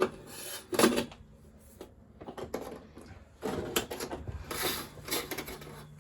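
Two sharp knocks about a second apart, then a busy run of clattering and rustling as curtains and their rings are handled on the window rail.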